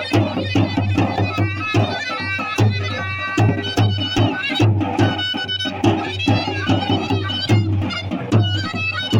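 Live traditional folk music: a reedy wind instrument plays a melody over a steady drum beat of two to three strikes a second.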